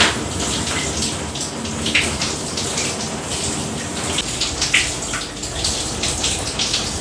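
Shower water spraying steadily from a handheld shower head and splashing, with irregular louder splashes.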